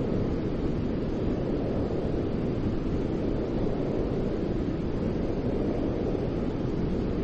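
Steady, unbroken noise from a baby-soothing white-noise track, deep and muffled rather than hissy, with most of its weight in the low range and no change in level.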